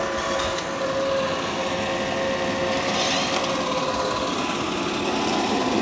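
Dreame X40 Ultra robot vacuum-mop running steadily across a hard floor: an even motor hum with a faint whine that fades out about four seconds in.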